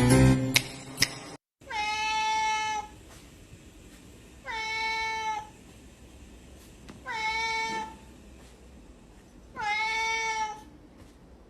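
A cat meowing four times, each meow about a second long and slightly falling at the end, repeating about every two and a half seconds. Music with sharp clicks plays for the first second and a half and then cuts off.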